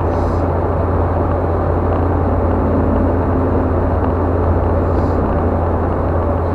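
Steady road noise inside a moving car at highway speed: tyres on asphalt and the engine running, an even low drone.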